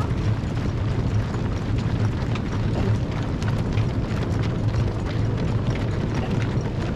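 Many marathon runners' footsteps pattering on the road in a dense, steady stream over a constant low rumble.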